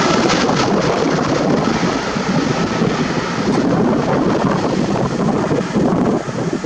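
Jet airliner's engines on takeoff, a loud steady rushing noise that eases slightly as the aircraft climbs away, with wind buffeting the microphone.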